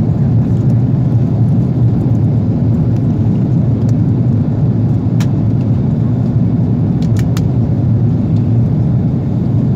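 Steady low roar of an Airbus A330 airliner's cabin in flight, engine and airflow noise heard from inside, with a few faint clicks about five and seven seconds in.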